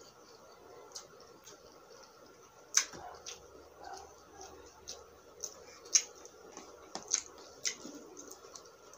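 Close-miked chewing of fried tilapia: wet mouth sounds with a run of sharp crunches and clicks, the loudest about three and six seconds in and several more near the end.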